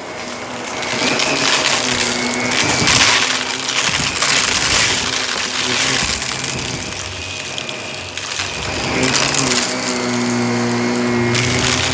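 Shark vacuum cleaner running over carpet: a steady motor hum with crunching and crackling as debris is sucked up. About nine seconds in, the hum bends in pitch and then holds steadier and stronger.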